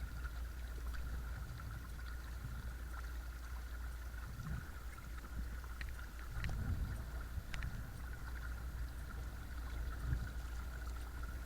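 Watersnake T24 12-volt electric trolling motor driving a sit-on-top kayak at low speed, a steady thin whine over a constant low rumble. Water washes against the hull in a few soft swells.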